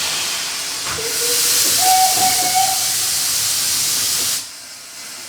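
A train letting out a loud, steady hiss that starts about a second in and cuts off sharply near the end, with two faint short whistle-like tones under it.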